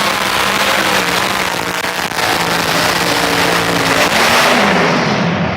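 Pulling tractor's engine running hard at full power, loud and steady, with a couple of brief sharp cracks; near the end its pitch sags and the sound falls away as the engine backs off.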